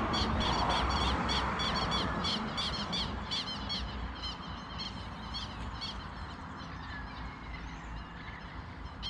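A bird calling in a rapid series of short, high chirps, about four or five a second, that fade out about six seconds in. Under it is a broad rushing noise that fades over the first few seconds.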